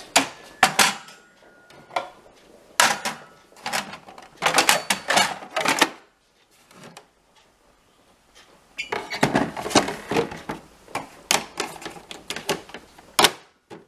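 Hard plastic parts of a De'Longhi bean-to-cup coffee machine, such as the drip tray, clattering and clicking as they are handled, in several bursts with a quiet pause midway.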